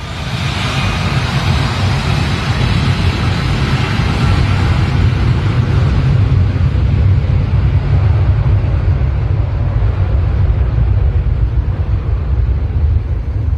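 Jet blast from an aircraft's engines at high thrust: a loud, steady rumble, its higher hiss strongest at first and fading after about five seconds.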